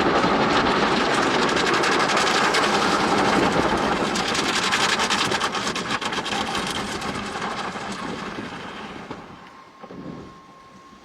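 Tunnel car wash brushes scrubbing the car, heard from inside the cabin: a loud, steady rushing with a rapid patter of strikes midway, fading away over the last few seconds.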